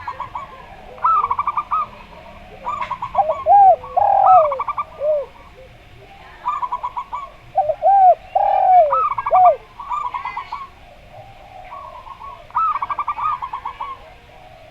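Zebra dove and spotted dove calling together. Quick, rattling strings of coos recur throughout. Two bouts of lower, swooping coos come a few seconds in and again near the middle.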